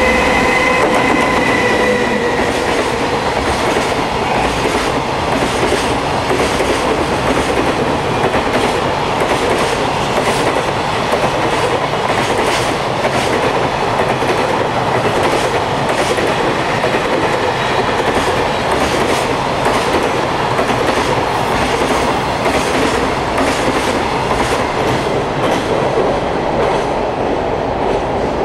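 A long electric-hauled container freight train running through at speed. A steady multi-pitched tone sounds over the first couple of seconds as the locomotive passes, then the container wagons go by with a rapid, continuous clickety-clack of wheels over rail joints. The sound fades near the end as the last wagons clear.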